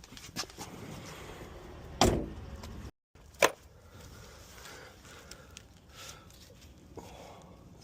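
Two loud sharp bangs, a little over a second apart, among light clicks and handling noise, typical of work going on around a car.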